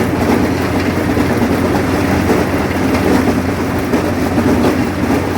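Allis-Chalmers 7000 tractor running steadily under load while mowing hay, a constant, very loud engine drone.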